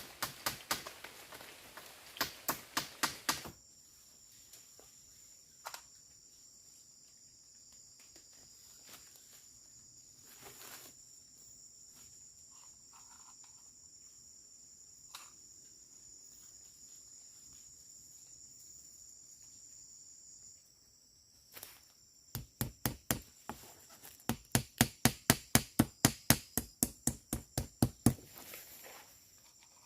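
Runs of sharp, evenly spaced knocks, several in the first few seconds and a fast series of about three a second near the end, with a few single knocks between. A steady high insect drone runs under them from a few seconds in.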